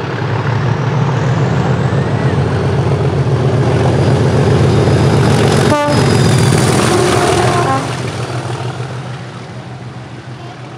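Class 37 diesel locomotive's English Electric V12 engine working hard as it passes, loud and growing louder to a peak in the middle, then fading after about eight seconds. A short horn toot sounds about halfway through.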